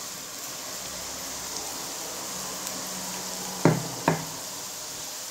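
Chopped onion, ginger, garlic and green chillies sizzling steadily in hot coconut oil in a nonstick pan, with two sharp knocks close together about three and a half seconds in.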